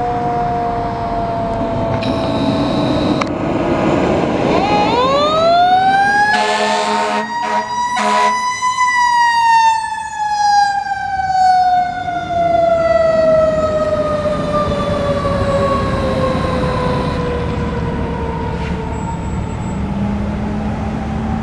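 Fire engine siren winding up to a peak and then winding down slowly over about ten seconds, with a couple of short horn blasts during the rise.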